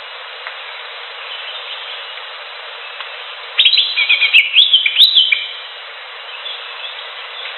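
Greater green leafbird (cucak hijau) singing a short burst of quick, sharply rising and falling whistled notes about halfway through, over a steady background hiss.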